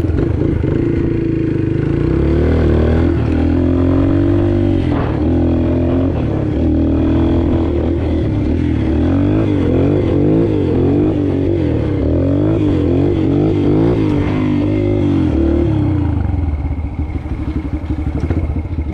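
Yamaha TT-R125 pit bike's single-cylinder four-stroke engine running while ridden, the revs rising and falling again and again with the throttle. Near the end the engine settles to lower, steadier revs.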